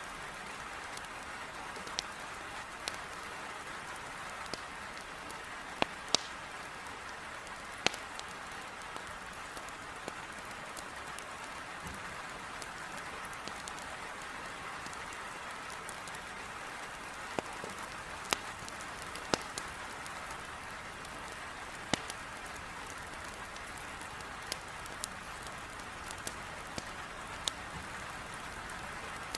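Heavy rain falling in a steady, even hiss against a window, with a wood fire in a fireplace crackling over it in sharp, irregular snaps a second or a few seconds apart.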